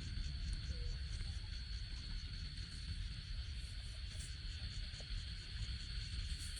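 Insects, likely crickets, trilling steadily in the background: a continuous high-pitched tone with an even, rapid pulsing above it. A low rumble runs underneath.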